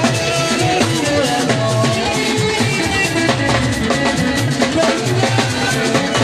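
Gospel band music with a drum kit and guitar playing a steady, continuous groove.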